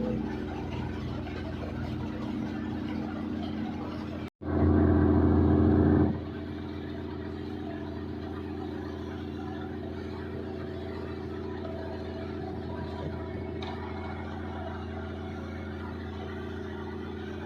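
Combine harvester running steadily, its engine hum under the clatter of the machinery. The sound breaks off for an instant about four seconds in, comes back louder for a couple of seconds, then settles to a steady run.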